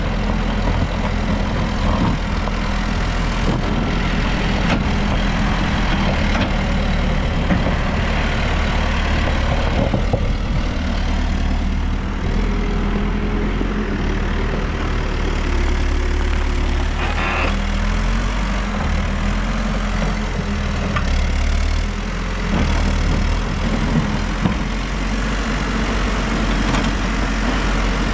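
New Holland backhoe loader's diesel engine running steadily, its low note shifting a little in the second half as the machine works.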